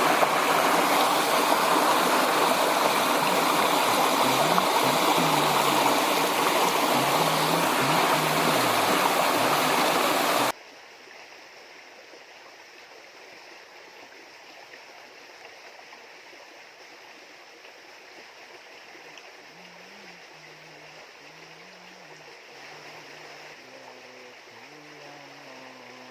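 Loud, steady rushing of river water for about ten seconds, which cuts off abruptly. A soft background melody plays under it and carries on in the quiet part that follows.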